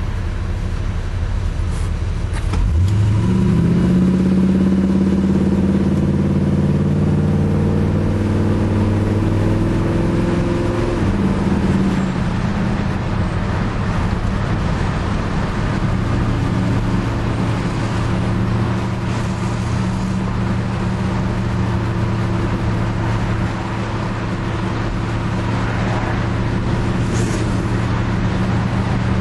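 Ford Galaxie's engine accelerating, rising in pitch about three seconds in and held there until about eleven seconds, then easing off to a steady cruise.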